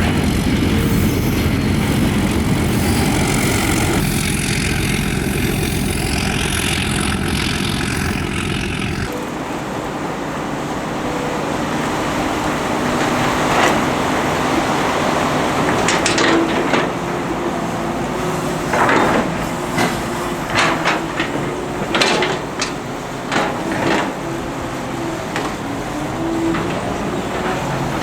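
Excavator diesel engine running with a heavy, steady rumble. About nine seconds in the sound changes abruptly to a lighter engine hum, broken by repeated clanks and scrapes in the second half.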